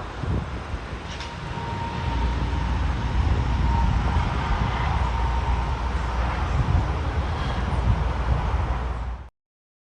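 Steady low rumble with hiss and a faint thin hum, cutting off suddenly near the end.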